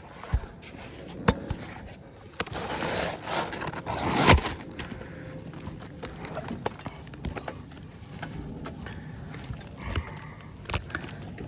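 Scattered knocks and footfalls on a shingled roof, with a rough scrape lasting about two seconds that ends in a sharp knock.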